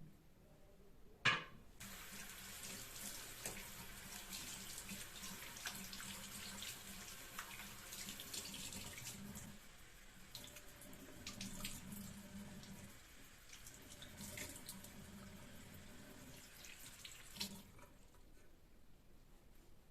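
A sharp knock about a second in, then water running from a tap into a sink as a steady hiss with small clicks of handling through it, shutting off near the end.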